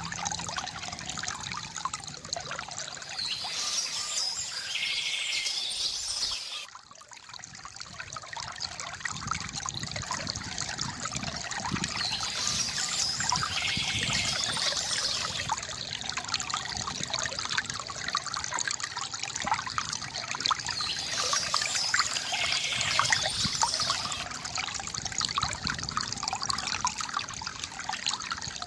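Water trickling and splashing steadily from a bamboo fountain, with birds chirping in short spells that come back about every nine seconds.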